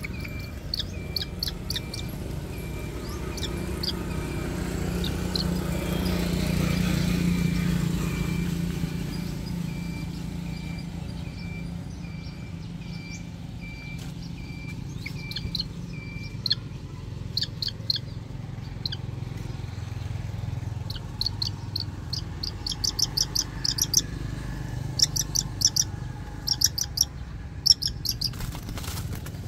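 Bird chirping in rapid series of short, high calls, the bursts coming closer together and louder in the second half. A low rumble swells and fades in the first third.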